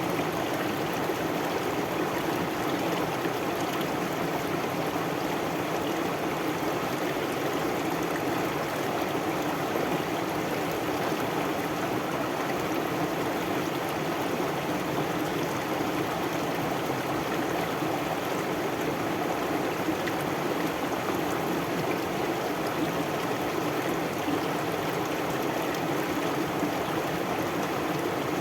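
Stream water flowing steadily, a continuous even rush and trickle of water with no change in level.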